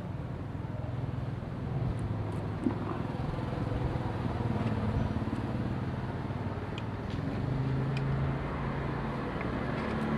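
Small Parsun 3.6 HP outboard motor running steadily. Its pitch wavers slightly and swells briefly near the end, with a few faint clicks over it.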